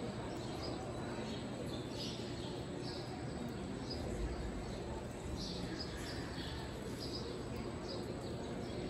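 Small birds chirping again and again in short, high, falling notes over a steady background hum.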